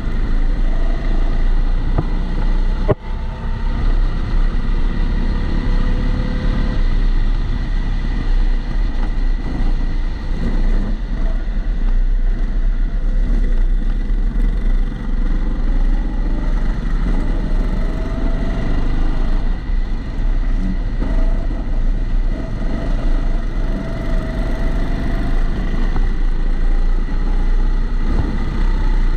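Kombikart Eco kart's engine heard onboard through a camera housing, muffled over a heavy rumble, its pitch rising and falling as the kart speeds up and slows for corners. A steady thin whine sits over it throughout, and there is a single sharp knock about three seconds in.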